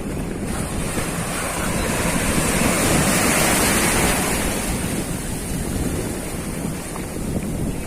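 Strong wind buffeting the microphone over a rough sea, with waves washing; the wash swells louder for a couple of seconds about two seconds in.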